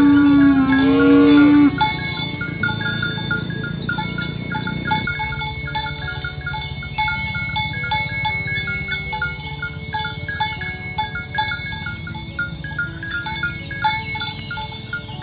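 A cow mooing: one long, low call that ends about a second and a half in. Bells chime steadily in quick, even strokes throughout.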